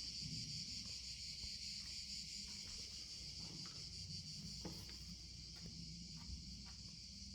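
Steady high-pitched chorus of insects buzzing in the woods, with a few faint ticks.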